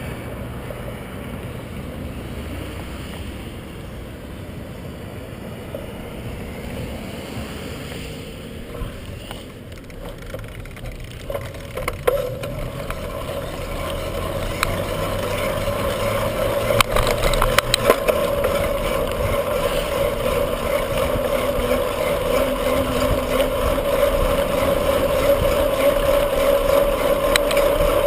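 Road and wind noise from a moving bicycle, picked up by a bike-mounted camera. It grows louder with a steady hum in the second half, and a few sharp knocks come from the loose camera mount bouncing.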